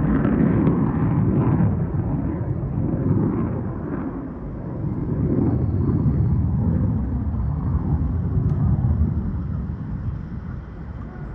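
Fighter jet flying an air show display, its engine rumble swelling, easing off about four seconds in, swelling again and fading near the end as it passes and turns.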